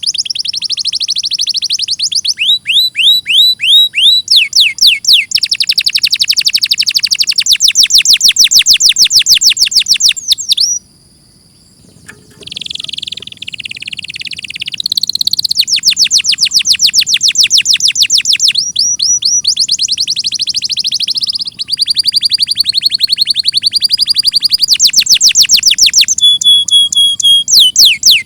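Canary singing: long, fast trills of repeated notes sweeping down in pitch, strung into changing phrases, with a short break about eleven seconds in.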